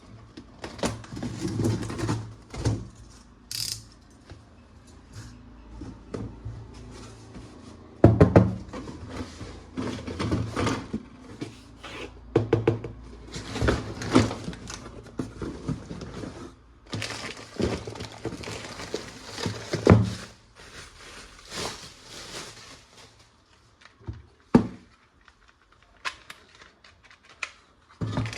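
Hard plastic toy guns and parts being handled: irregular clicks, knocks and rattles, with a couple of louder thumps.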